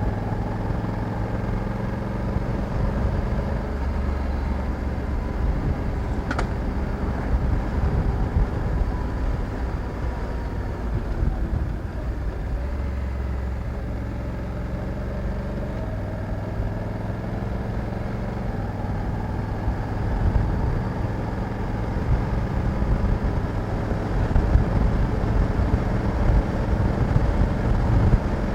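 Honda Africa Twin 1100 DCT's parallel-twin engine running steadily while the motorcycle is ridden, with a rumble of road and wind noise underneath. The engine note steps to a new pitch a few times. There is a single short tick about six seconds in.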